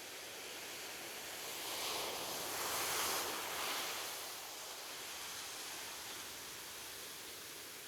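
Gentle ocean surf washing on a beach. A wave swells louder about two seconds in, peaks around three seconds, and recedes into a steady hiss.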